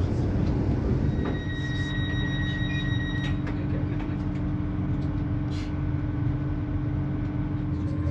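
Steady low rumble of a passenger train running on the track, heard from inside the carriage. A thin high-pitched wheel squeal starts about a second in and stops about two seconds later.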